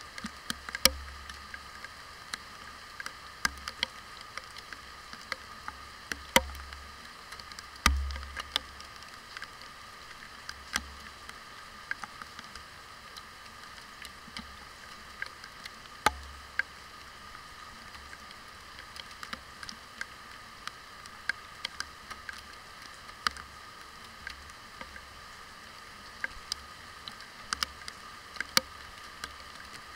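Heavy rain heard from inside a waterproof camera case: a steady hiss with raindrops striking the housing as sharp, irregular ticks and taps. The strongest taps come about one, six, eight and sixteen seconds in.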